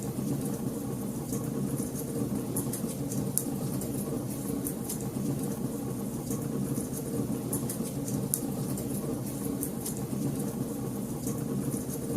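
Wood fire crackling in a fireplace: frequent small, sharp pops and snaps over a steady low rumble of burning flames.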